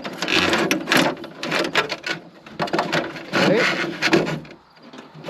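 Irregular rubbing and scraping as the rubber washer hose and its fittings are handled and pushed into place against the car's plastic body parts, in quick uneven strokes with a short lull near the end.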